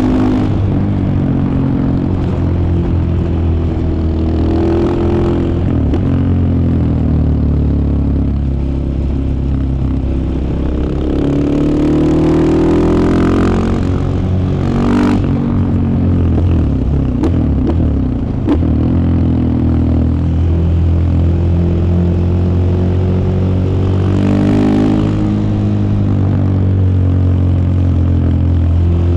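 2015 KTM 690 Enduro R's single-cylinder engine running while riding, its pitch rising several times as the throttle is opened between steadier stretches.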